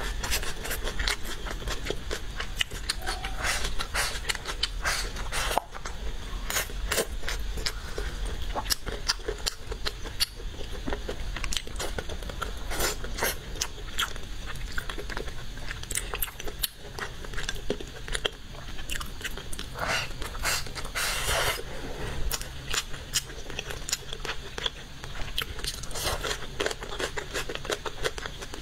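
A person chewing and biting a mouthful of braised pig's feet with rice and greens, close to the microphone, with many small irregular clicks.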